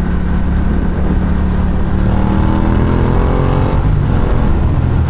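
Ducati Diavel's V-twin engine running under a steady low rumble. From about two seconds in it accelerates, its note rising for nearly two seconds, then drops off.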